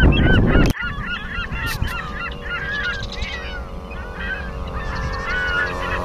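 A flock of geese honking, many short overlapping calls packed into the first three seconds and then thinning out, over the steady drone of a propeller aircraft's engine. Wind rumbles on the microphone at the start and cuts off abruptly under a second in.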